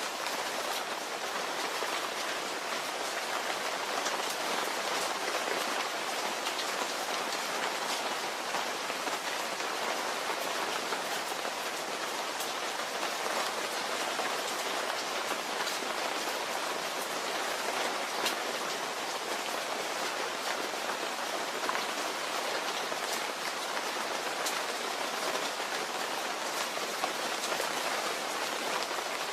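Steady rain falling, a constant patter with many individual drops ticking on a surface.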